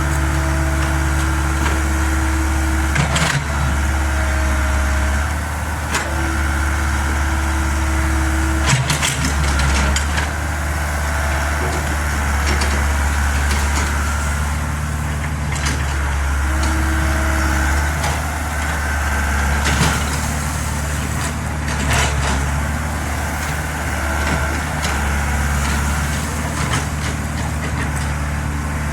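Mini excavator's diesel engine running steadily, with a hydraulic whine that comes and goes every few seconds as the machine works. A few sharp knocks are scattered through it.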